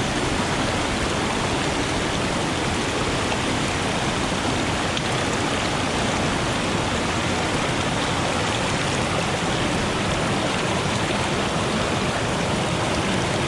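Mountain stream water rushing over rocks, a steady, unbroken wash of noise.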